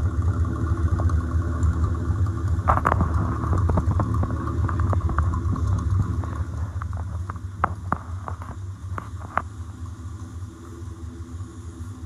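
Morris Minor's four-cylinder engine idling with a steady low exhaust rumble, heard close to the tailpipe. A run of sharp clicks and taps comes over it from about three to nine seconds in.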